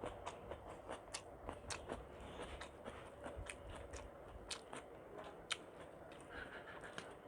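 Close-miked chewing of a meal of khichuri with egg, brinjal, chicken and hilsa fish: irregular soft mouth clicks and smacks, several a second.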